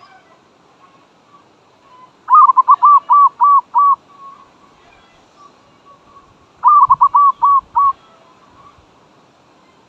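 Zebra dove cooing its staccato song: two loud phrases of quick, evenly repeated notes, the first about two seconds in and the second about seven seconds in.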